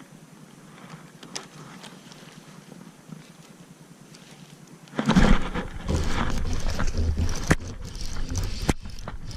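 Faint outdoor air with a few light clicks, then about five seconds in wind starts buffeting the microphone, a loud low rumble with a couple of sharp knocks.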